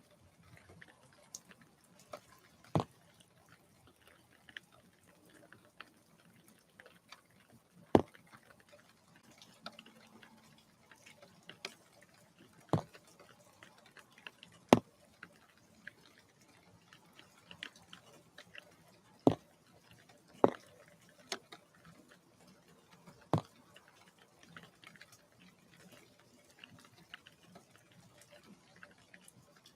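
Large raindrops falling on the feeder, each landing as a sharp tap at irregular gaps of a second to several seconds.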